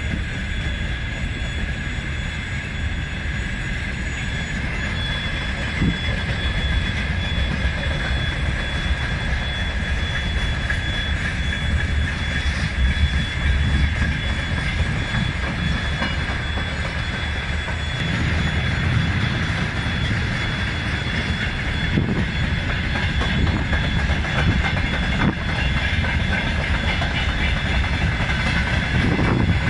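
Freight train of tank cars and boxcars rolling past: a steady low rumble of wheels on the rails with clickety-clack and a few knocks. A steady high-pitched tone runs over it.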